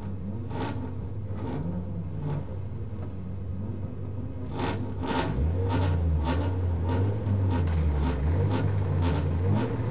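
Toyota Vios race car's engine heard from inside the cabin, idling at first, then revved about halfway through and held at higher revs with a brief dip, as the car waits to launch from the starting grid. Sharp clicks come repeatedly over the engine, more often in the second half.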